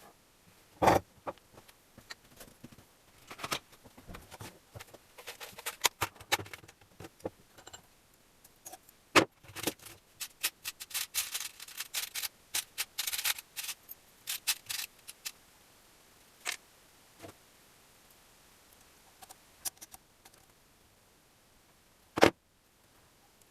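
Small metal parts and hand tools being handled during engine assembly: irregular clicks, knocks and light scraping. There is a dense run of quick clicking about halfway through, and a single sharp knock near the end.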